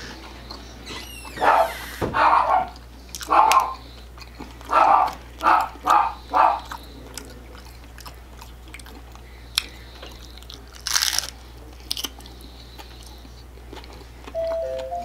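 Close-miked biting and chewing of a crunchy hard-shell taco: a run of loud crunches over the first seven seconds, then quieter chewing with a few clicks and one sharp crunch.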